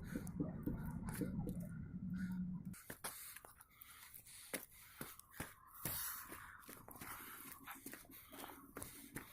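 Footsteps climbing stairs, heard as scattered short knocks, after a steady low hum and rumble that stops sharply about three seconds in.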